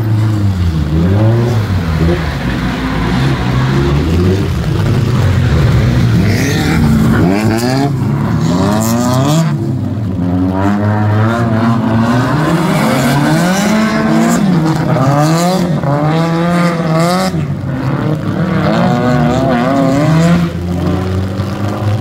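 Drift car engines revving hard and dropping off again over and over, the pitch climbing and falling every second or two as the cars slide through the corners, with some tyre noise.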